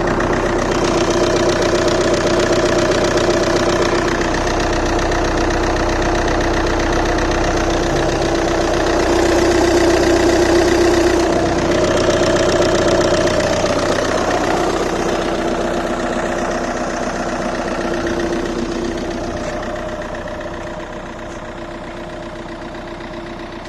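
Seat Leon 2.0 TDI four-cylinder common-rail turbodiesel idling steadily with diesel clatter, still cold after a start at about 0 °C. The sound grows fainter over the last few seconds.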